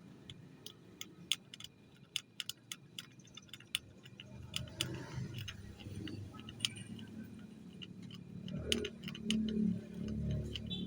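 Irregular light metallic clicks and ticks, many in the first few seconds, from small tools and parts being handled; from about four seconds in, a low rumbling handling noise joins them and grows louder near the end.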